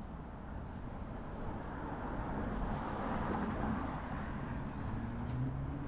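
Street traffic: a car passes, swelling about halfway through, and an engine note rises in pitch near the end.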